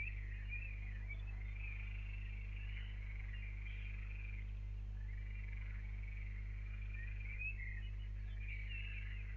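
Birds chirping and warbling almost without pause over a steady low electrical hum.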